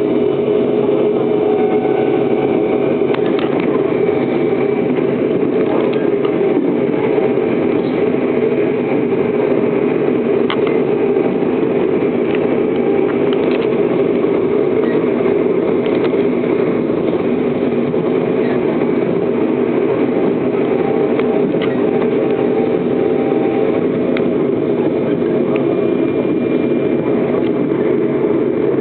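Seoul Metro Line 4 GTO-VVVF electric multiple unit running at steady speed: a continuous rumble of wheels on rail with faint steady tones and an occasional faint click.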